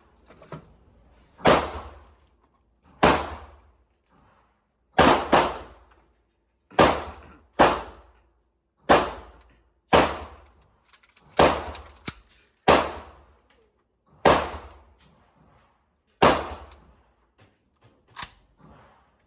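Gunshots at a shooting range: about a dozen sharp, echoing reports fired at irregular intervals of one to two seconds, a few of them in quick pairs.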